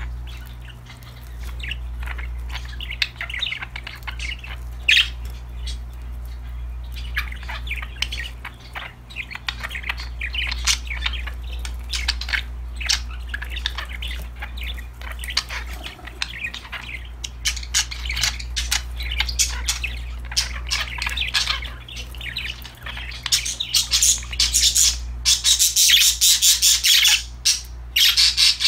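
Several budgerigars chirping in quick, overlapping calls, growing louder and busier about twenty-three seconds in, over a steady low hum.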